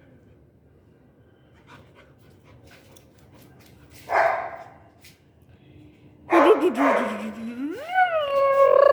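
A dog vocalising: one short bark about four seconds in, then a long drawn-out howling whine that wavers, sweeps down low and rises again near the end.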